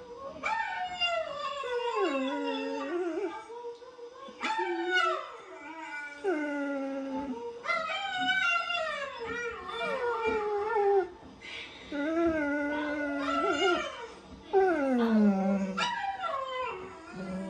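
Dogs rooing: a run of long, wavering howls, each starting high and sliding down in pitch, about six of them with short breaks between.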